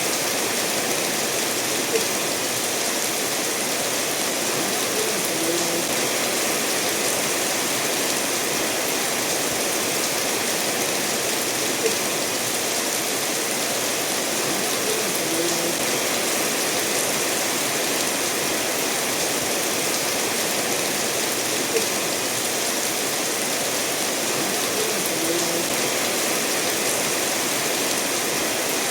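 Steady rain falling together with a stream running over stones: an even, unbroken hiss of water. Three sharp single ticks, like big drops, land about ten seconds apart.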